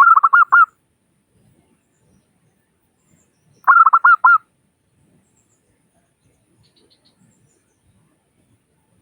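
Zebra dove (perkutut) cooing: two short phrases of about five quick, evenly spaced notes each, the second coming about three and a half seconds after the first.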